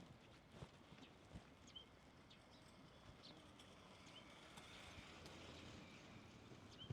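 Faint outdoor ambience of footsteps on a walking path, with short bird chirps now and then.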